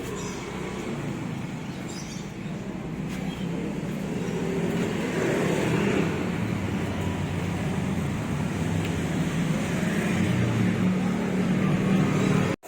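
Steady road-traffic rumble, growing a little louder from about the middle, then cutting off suddenly near the end.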